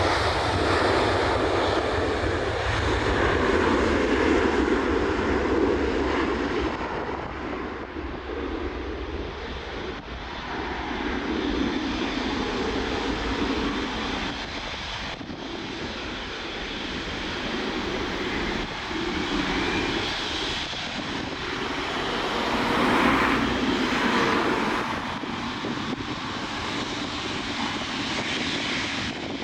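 Boeing 777-300ER's GE90 turbofan engines running: a loud, steady jet rush with a low rumble underneath, swelling and easing in loudness over the seconds.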